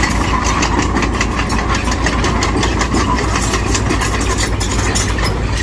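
Diesel engine of a heavy earthmoving machine running steadily, with a rapid clatter over it that stops shortly before the end.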